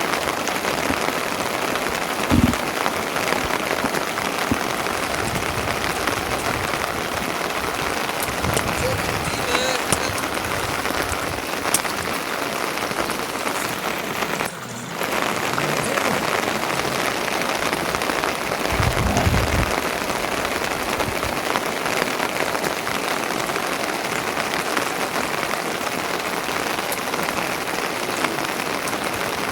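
Steady heavy rain falling, an even hiss that briefly drops out about halfway through. A short low thump comes a couple of seconds in, and a longer low rumble about two-thirds of the way through.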